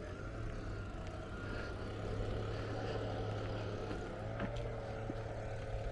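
A motor vehicle engine running with a steady low hum and a faint higher whine.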